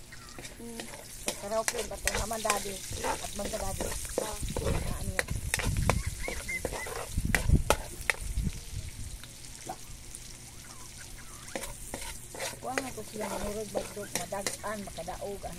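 Chopped onion frying in oil in a wok, with a metal spatula scraping and clinking against the pan as it is stirred. Steady sizzle under repeated sharp clicks of the spatula, loudest about halfway through.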